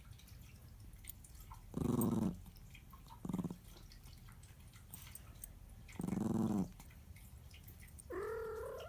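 A dog growling in short bouts, three times, then a higher, wavering whine near the end: a dog objecting to a cat climbing on it.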